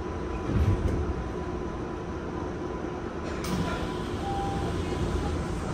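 Inside a Tokyu 5050 series commuter car standing at a platform: steady hum of the stopped train's equipment, with a sudden hiss of air about three and a half seconds in.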